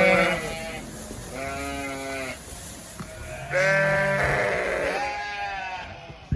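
Sheep bleating: about four long, wavering bleats one after another from the flock.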